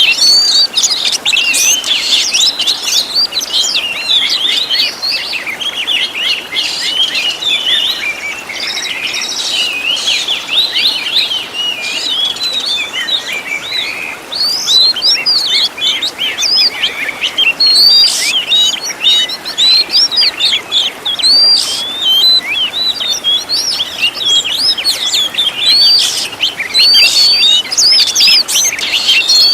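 Oriental magpie-robin (kacer) singing without pause: a dense, rapid stream of varied chirps, trills and short whistles, the kind of fill-rich song used as a training recording for caged birds.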